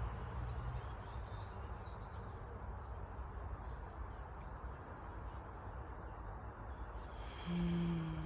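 Small birds chirping: a string of short, high chirps, each dropping in pitch, about two a second. About seven and a half seconds in, a woman starts humming a steady low note.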